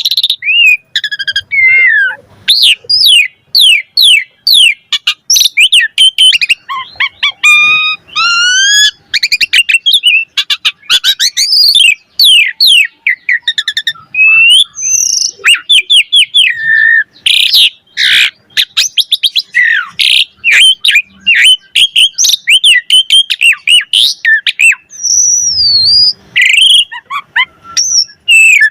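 Javan pied starling (jalak suren) singing a long, varied song: a fast, almost unbroken run of loud whistles, quick rising and falling glides and short harsh chatters, the mix of borrowed phrases (isian) that keepers value in a bird in full song.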